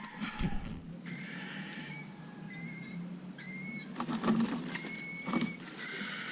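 A bird chirping in about four short, level whistled notes, with a few knocks and clatters of handling: one about half a second in, and a cluster around four to five and a half seconds in.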